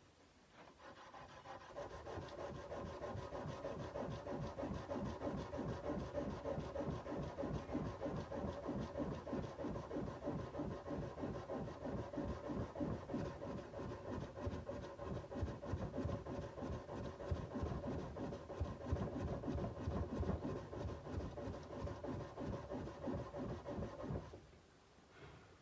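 Sandpaper rubbed by hand along a steel kukri blade in rapid, even back-and-forth strokes, with a steady tone under the scratching. The strokes start just under a second in and stop about a second before the end.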